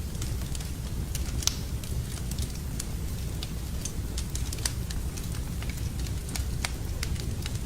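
Wood fire burning in a fireplace: frequent, irregular sharp crackles and pops over a low, steady rumble of the flames.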